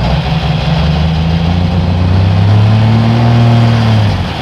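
Turbocharged diesel pulling tractor engine running hard at high revs, its pitch climbing over the last couple of seconds before dropping away abruptly about four seconds in.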